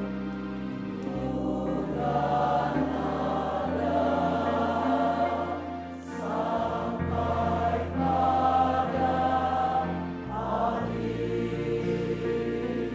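Church choir singing a slow hymn in held chords over low sustained accompaniment, the voices swelling louder through the middle and easing off near the end.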